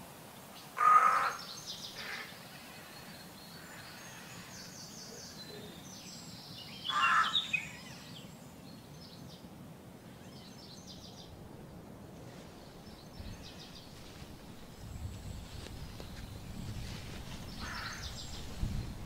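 Bird calls: three short, loud calls (about a second in, around seven seconds and near the end) over faint high chirping.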